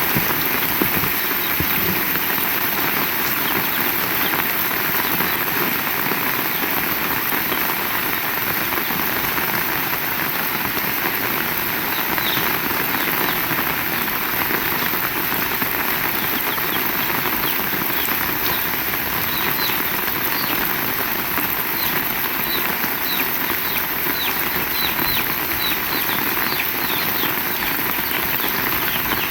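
Heavy rain falling steadily, with many small drop ticks standing out from about halfway through.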